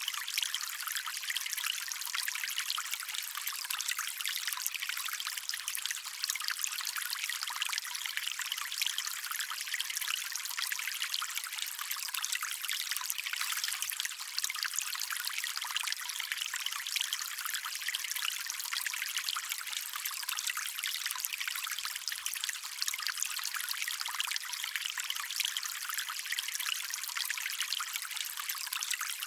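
Stream water trickling and splashing steadily over stones, a light, bright babble with little low rumble.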